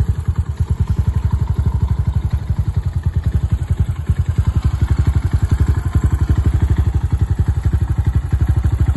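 2021 Regulmoto ZR 250's 250 cc single-cylinder four-stroke engine idling, a steady, even thumping of about ten to twelve beats a second.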